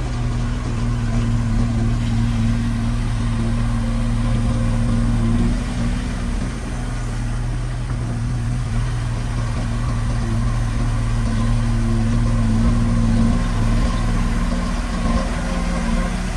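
Heavy construction machine's diesel engine running steadily. It eases off briefly about six seconds in, then picks up again.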